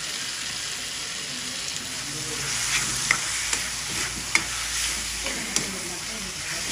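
Chicken pieces with tomato and onion sizzling in oil in a wok, stirred with a spatula that scrapes and strikes the pan in a few sharp clicks after a couple of seconds.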